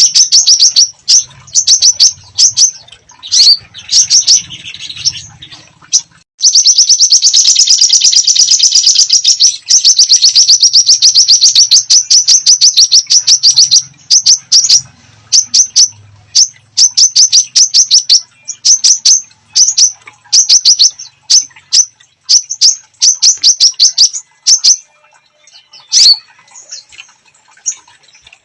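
A songbird singing vigorously: runs of sharp, high, rapidly repeated chip notes, with a long fast trill a quarter of the way in, then more short bursts of chips that thin out near the end.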